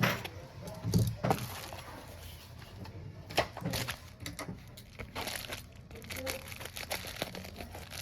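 Irregular small clicks, taps and light rattles of tools and parts being handled on a phone repair bench.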